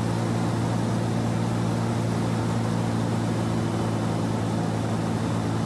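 Car engine running at a steady highway cruise, a constant low drone with road and wind noise.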